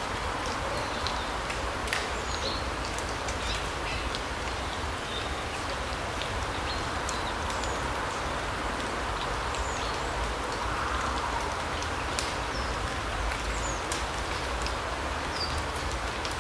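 Forest ambience: a steady soft rushing background with short, high bird chirps scattered throughout and occasional light sharp ticks.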